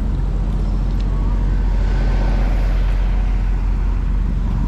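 Steady low rumble of wind and road noise on a bike-mounted microphone while cycling, with a louder swell that rises and fades about halfway through, like a vehicle passing.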